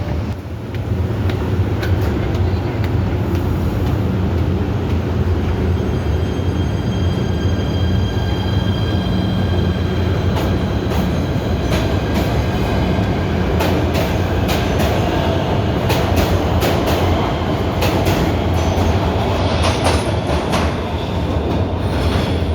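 PATH subway train running on the rails: a steady heavy rumble with sharp clicks from the wheels over rail joints, and high-pitched wheel squeal joining in from about halfway through.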